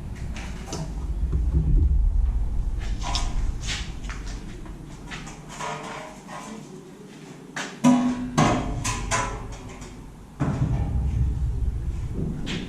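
Cured fibreglass layup being prised and peeled off a steel sheet: irregular sharp cracks, pops and creaks as the resin lets go, some with a brief metallic ring from the sheet.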